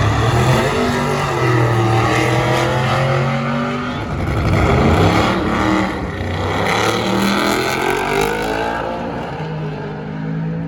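Drift car engines revving hard, the pitch climbing and dropping again and again as the throttle is worked, at times two engines at once.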